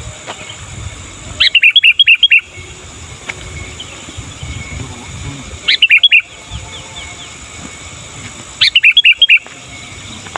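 Sooty-headed bulbul (kutilang) singing: three loud bursts of quick, bright chirping notes, each about a second long, spaced about four seconds apart.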